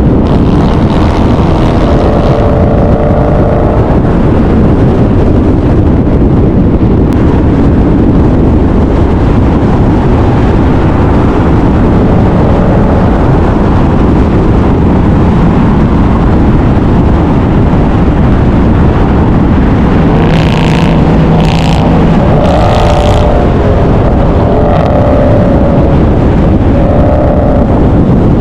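Loud, steady car engine and road noise that stays constant without letting up.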